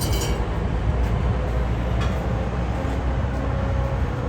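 Cammed 2008 Chevrolet Impala SS's 5.3-litre LS4 V8 idling through a full 3-inch straight-pipe exhaust with a steady, deep rumble.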